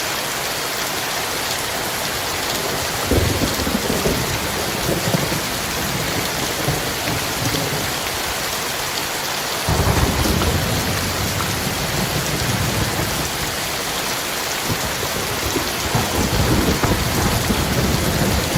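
Heavy rain falling steadily, with thunder rumbling three times: a roll about three seconds in, a louder one that starts abruptly about halfway through, and a third near the end.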